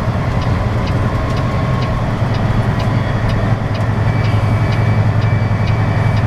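Diesel semi-truck engine idling steadily with a deep, even hum and a faint regular ticking.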